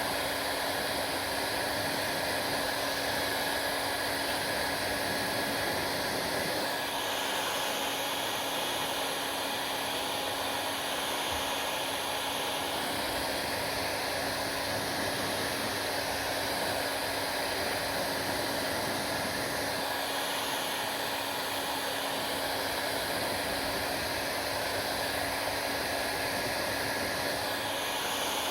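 Hair dryer running steadily: a continuous hiss of blown air over a steady motor hum, the hiss shifting in tone every six or seven seconds.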